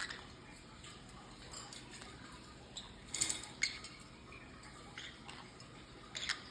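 A small conure bathing in a shallow water dish: a few short, sharp splashes and clicks from its wings and beak against the water and the dish, the loudest cluster a little after halfway.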